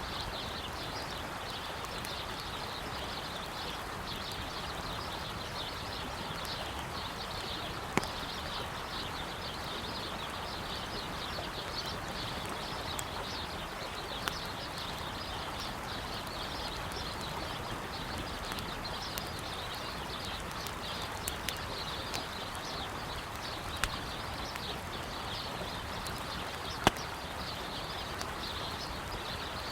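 Steady rush of a flowing river with birds chirping, and a wood campfire crackling with a few sharp pops, the loudest about eight seconds in and near the end.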